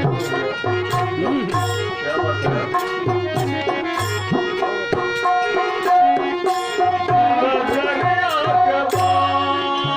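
Instrumental interlude of a folk devotional song: tabla playing a steady teen taal rhythm, the bass drum strokes sometimes bending in pitch, under a melody instrument holding long notes.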